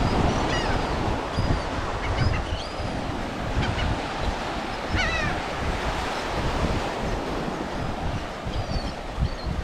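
Surf washing onto the beach with wind noise on the microphone, and sea birds giving short high calls several times, a quick run of them about five seconds in.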